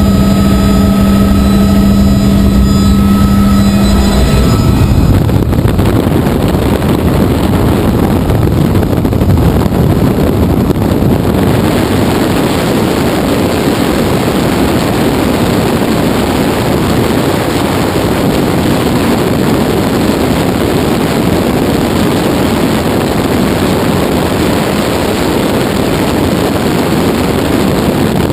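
Helicopter in flight, heard loud through a GoPro mounted on the aircraft. A steady droning hum fills the first four seconds, then gives way to a loud, even rushing noise of rotor and wind.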